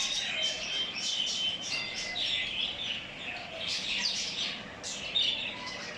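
Caged birds chirping and twittering: many short, quick high calls overlapping with one another.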